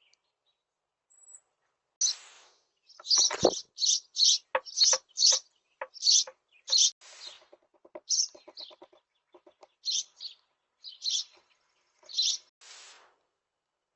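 Small birds chirping in quick, short calls again and again, mixed with short knocks and a low thump about three and a half seconds in.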